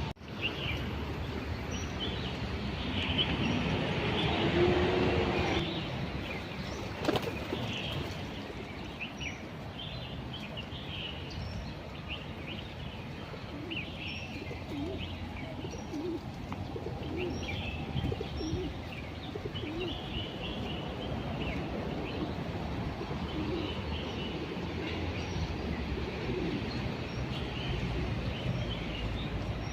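Wild birds chirping repeatedly in short high notes, with doves cooing low, over a steady low background rumble that grows louder for a few seconds near the start.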